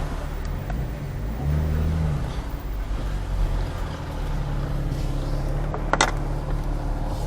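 BMW M4 Competition's twin-turbo straight-six engine running steadily at low revs, with a brief rise in revs about one and a half seconds in. A short sharp sound comes about six seconds in.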